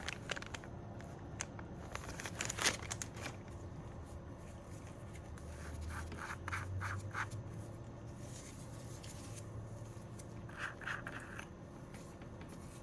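Hands handling unboxed nail products and their packaging: scattered light scratches, scrapes and small clicks, in a few short clusters.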